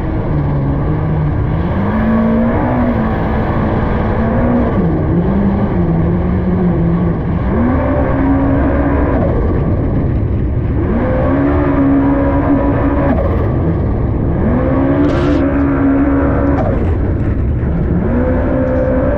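Yamaha SVHO supercharged four-cylinder engine in a personal watercraft running at speed. Its pitch climbs, holds and drops back several times as the throttle is opened and eased.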